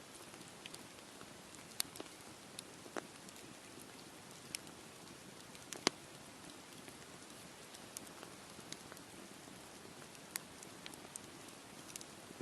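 Campfire crackling: a steady low hiss with irregular sharp pops and snaps of wood, the loudest about six seconds in.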